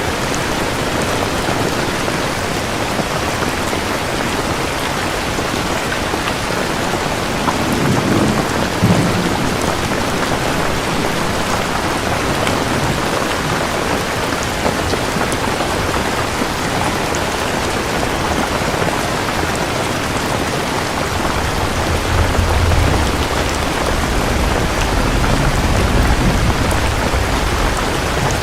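Steady heavy rain with thunder: a short low rumble about a third of the way in, then a longer rolling rumble from about three-quarters through to the end.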